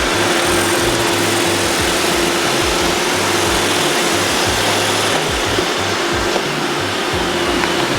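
A crowd of Roomba robot vacuums running together: a steady whirr of many small vacuum motors and brushes sweeping up sprinkles.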